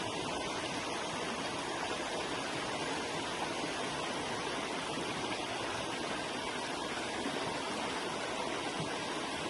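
Forest river flowing over rocks: a steady, even rushing of water.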